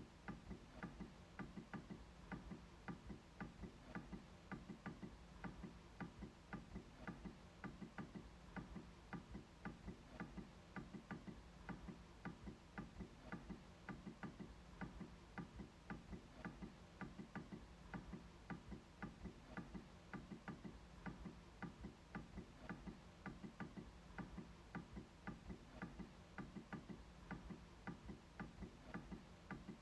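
MacBook trackpad clicked over and over in a steady run of faint clicks, about two to three a second.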